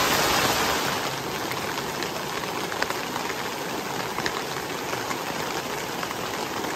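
Heavy rain pouring down together with a rushing, swollen stream of floodwater, a steady hiss. It is louder in the first second, then settles, with occasional sharp taps of drops.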